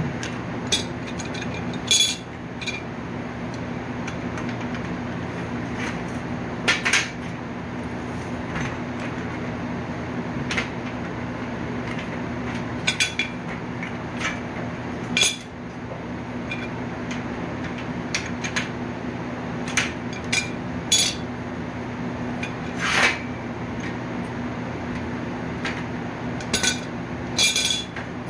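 Irregular metallic clanks and knocks of a steel bed frame being bent back straight by hand, over a steady low hum.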